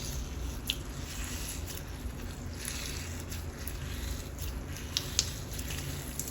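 Clear-glue slime filled with pumice stone being squished and worked by hand: wet squishing with soft crackling from the pumice and a few sharp clicks and pops.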